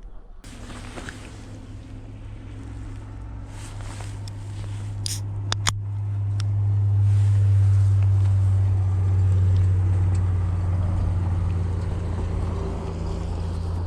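A steady low mechanical hum from an engine running at constant speed. It starts about half a second in, grows louder to a peak around seven seconds in, then eases slightly, with a few brief clicks around five seconds.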